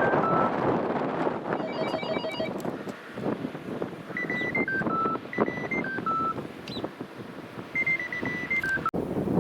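A short electronic ringtone-like tune plays four times: a few high notes held on one pitch, then two lower steps. A quick run of electronic beeps comes about two seconds in, and wind rumbles on the microphone throughout.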